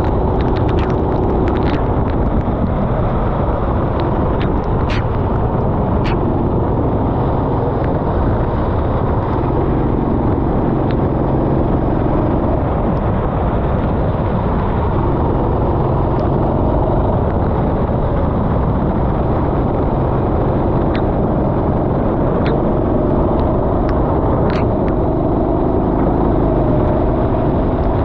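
Racing kart engine running hard, its pitch rising and falling as it accelerates and slows, under a loud rush of wind and track noise. There are a few sharp clicks, mostly in the first few seconds.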